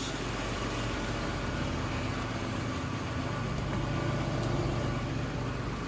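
Box truck engine idling steadily.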